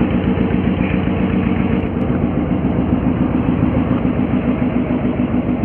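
Fishing boat's engine idling steadily, with an even low beat.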